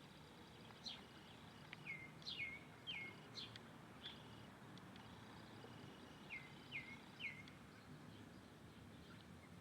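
Small bird calling, faint: about ten short chirps, each sliding steeply down in pitch, in loose groups of two or three, over a quiet steady background hiss.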